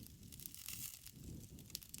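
Campfire crackling: a soft hiss of burning wood, with a couple of sharp pops near the end.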